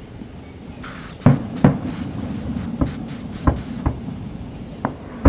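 Fireworks bursting overhead: about six sharp bangs over four seconds, with a high crackling fizz running between the first few.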